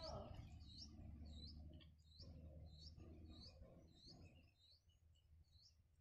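Small bird at a nest making faint, short high chirps, repeated about twice a second and thinning out near the end.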